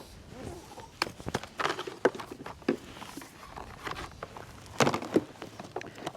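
Irregular knocks, clunks and scuffs, a few a second, with no steady machine running.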